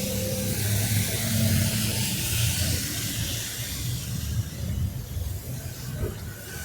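Street traffic: vehicle engines running and passing, over a steady hiss.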